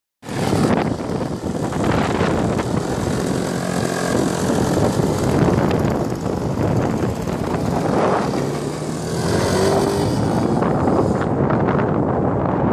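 OS 120 AX two-stroke glow engine of a Seagull MXS-R model aeroplane running with its propeller, its pitch shifting a little now and then, under heavy wind-like noise.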